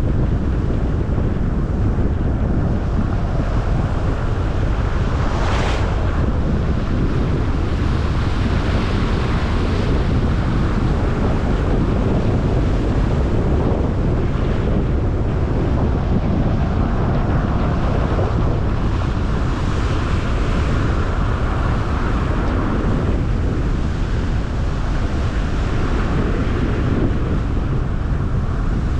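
Steady low rumble of tyre and wind noise from a car driving on a snowy road, with wind buffeting the camera microphone. A brief hiss comes about five and a half seconds in.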